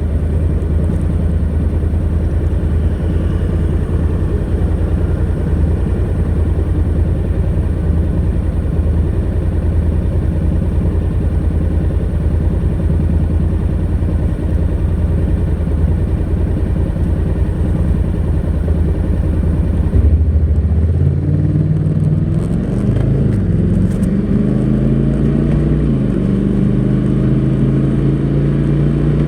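Honda NC700X's 670 cc parallel-twin engine with stock exhaust, heard from the riding motorcycle, running at a steady speed with wind and road noise. About twenty seconds in the engine note changes and then rises and falls several times as the bike changes speed.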